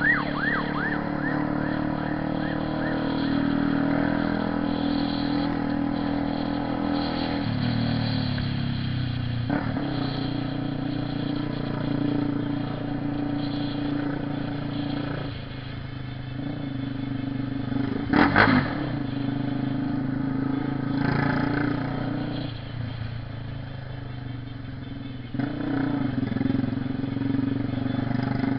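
Honda CB 300R motorcycle engine running under way, its pitch rising and falling as the throttle is opened and closed. A single sharp loud crack comes about eighteen seconds in.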